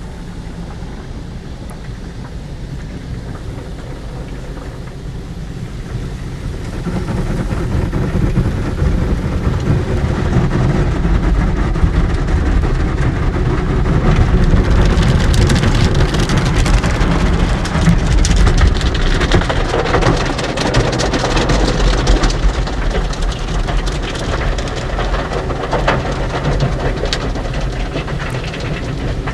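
Car wash tunnel equipment working on a car: water spraying and drumming on the body over a low rumble. It grows louder about seven seconds in, and from about halfway on more hissing spray and crackle join in.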